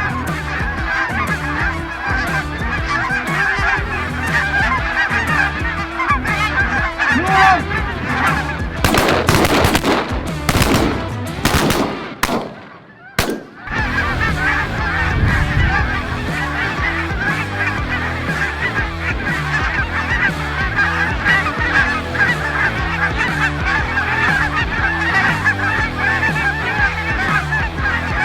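A large flock of geese honking continuously, many birds calling over each other. Before the middle there is a stretch of loud, noisy crackle, and then the sound briefly drops out almost to nothing before the honking resumes.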